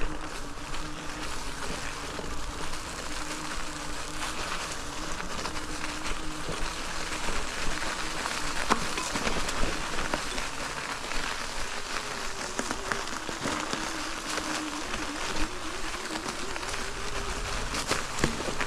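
Folding e-bike riding along a sandy trail: a steady rush of tyre and trail noise with scattered small rattles and clicks, over a low whine that wavers in pitch.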